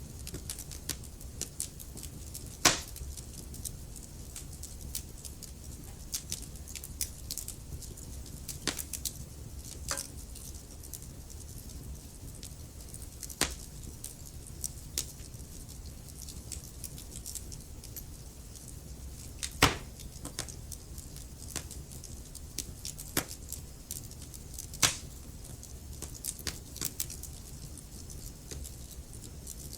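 Wood fire burning in a fireplace, crackling with many small irregular pops over a steady low rumble of the flames. A few louder, sharper snaps stand out, about three seconds in, near the middle, and twice in the last third.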